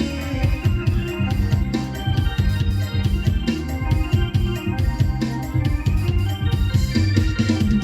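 Electone electronic organ playing an upbeat instrumental passage over a steady drum beat, with sustained chords and no singing.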